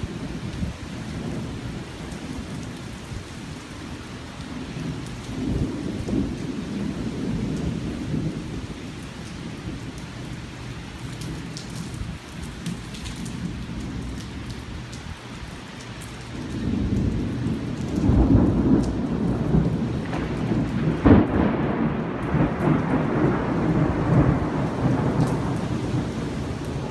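Thunder rumbling low over steady rain. About two-thirds of the way in the rumble swells into a louder, longer peal with one sharp crack in the middle of it.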